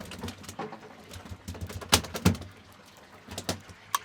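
Several sharp knocks and thumps, the loudest pair about two seconds in and a few more near the end, over a low background rumble.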